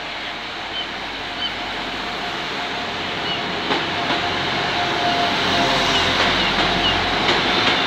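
A diesel multiple-unit passenger train running in alongside the platform, its rumble growing steadily louder. A steady whine sets in about halfway through, with faint short squeaks repeating over it.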